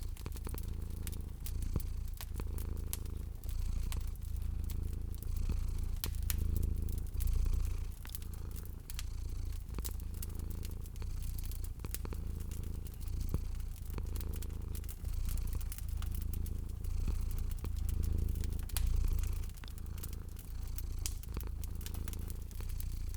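A cat purring, a deep rumble that swells and eases about once a second with each breath, under a fireplace fire crackling in frequent sharp snaps.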